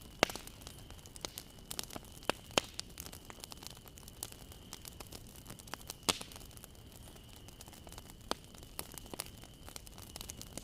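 Wood fire crackling: a steady low hiss with irregular sharp pops, and a few louder snaps about a quarter second in, at two and a half seconds and around six seconds.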